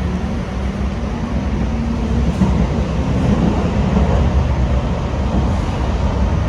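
Hong Kong Light Rail Phase III train running between stops, with a steady low rumble of wheels and motors heard from inside the car.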